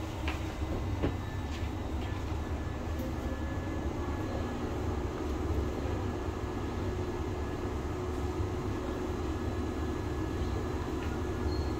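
Steady low hum of an AREX commuter train car standing at a station platform, with a few light clicks within the first two seconds.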